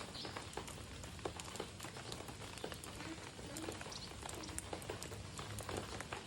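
A flock of munias giving many short, irregular chips and ticks, with faint voices in the background.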